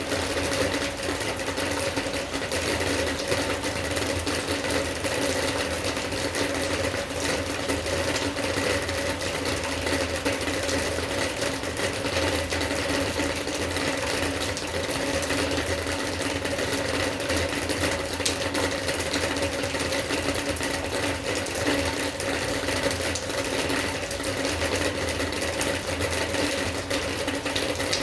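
Rain falling steadily, a dense continuous patter of drops with a faint steady hum underneath.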